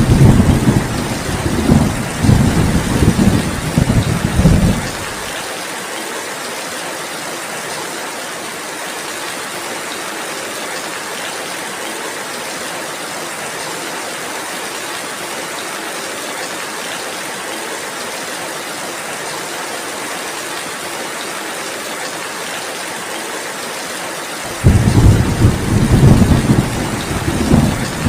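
Steady rain falling, with a low rumble of thunder that fades out about five seconds in and another that rolls in a few seconds before the end. The thunder rumbles are the loudest part.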